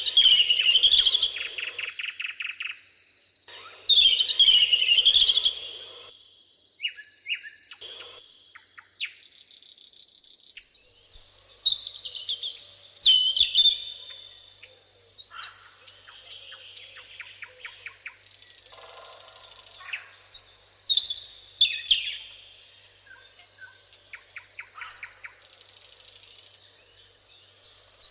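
Songbirds singing in a meadow. A loud song phrase of falling whistled notes ending in a rapid trill comes back several times, with softer chirps between. Insects make a thin steady high-pitched drone underneath and give short bursts of buzzing now and then.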